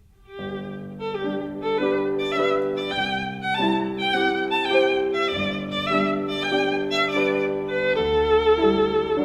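Background music: a violin melody with vibrato over sustained lower accompaniment, fading in about half a second in.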